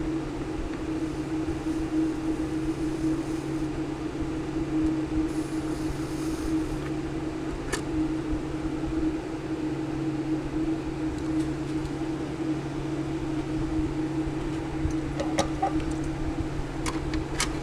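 A steady electric motor hum, with a few light clicks near the end.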